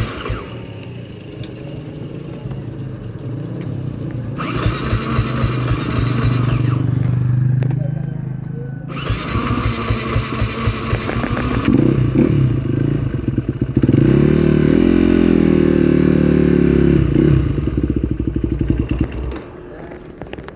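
Trail motorcycle engine running under throttle. It climbs in pitch about twelve seconds in, holds high for about three seconds, then drops back toward the end.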